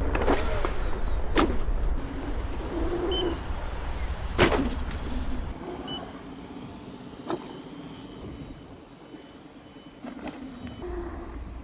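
Electric unicycles ridden over dirt jumps: several sharp knocks as the wheels land, the loudest about four and a half seconds in, over a low wind rumble on the microphone that drops away about halfway through.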